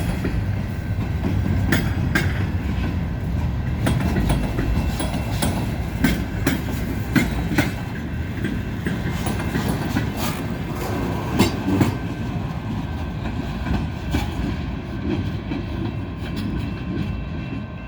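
Herzog rail maintenance train rolling past: a steady low rumble of wheels on rail with irregular clicks and clacks as the wheels cross joints, easing off near the end.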